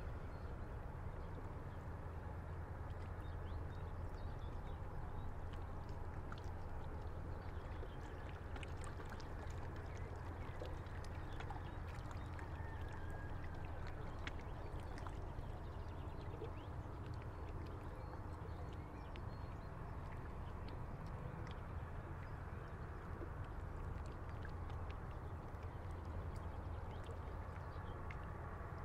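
River water lapping against a stone breakwater, with scattered small splashes and a steady low rumble underneath.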